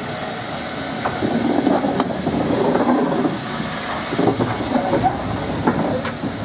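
Steam locomotive hissing steadily as it releases steam, with a few sharp metallic clicks.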